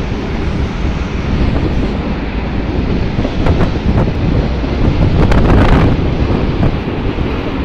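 2M62UM diesel locomotive passing close below, its engine running with a heavy low rumble, then tank wagons rolling past on the rails. Wind buffets the microphone throughout.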